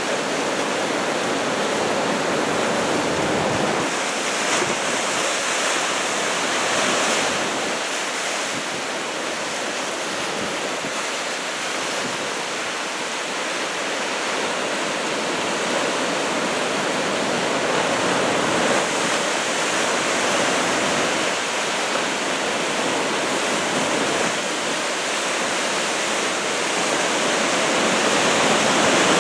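Ocean surf from a two-metre typhoon swell breaking along the shore: a continuous rushing wash of water that swells and eases slightly as sets come in.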